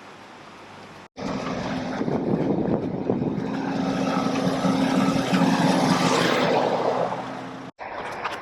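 Loud, steady mechanical drone of a vehicle with a steady low hum, cut in abruptly about a second in and cut off near the end, with a quieter outdoor background on either side.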